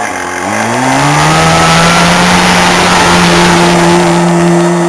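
Modified racing lawn tractor's engine revving up over the first second or so, then held at high revs with a steady, loud note.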